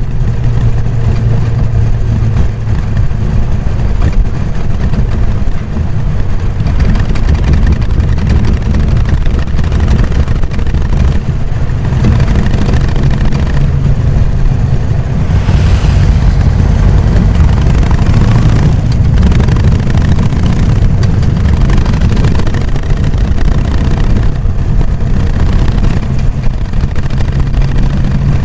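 Harley-Davidson Sportster XL883N Iron's air-cooled V-twin engine running through its stock exhaust, a loud, deep, pulsing note. The engine speed shifts up and down several times.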